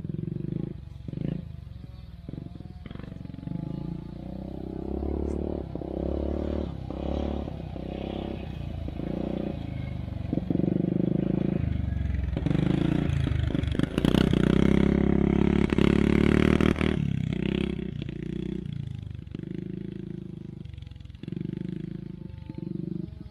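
Yamaha Grizzly 600 ATV engine running as it is ridden, the throttle opening and closing over and over. It is loudest under hard throttle from about halfway through for several seconds, then eases back.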